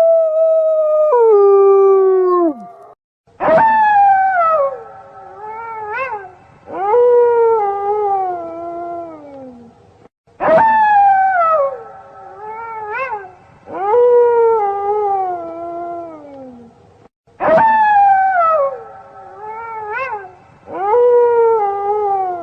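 Wolves howling: long falling howls, each followed by a short rising-and-falling call and another falling howl. The same sequence repeats about every seven seconds, three times, as a looped recording. It opens with a held howl that drops in pitch and fades.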